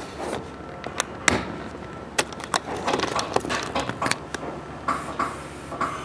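Mizuma Railway 1000 series electric train heard from inside the car, rolling slowly with many irregular sharp clicks and clunks from the wheels and running gear and a faint squeal.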